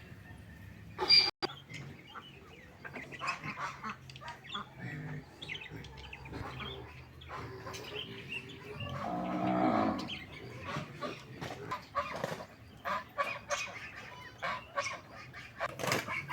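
Farmyard fowl calling: a run of short honking calls, with a louder sharp call about a second in and a longer call around two-thirds of the way through.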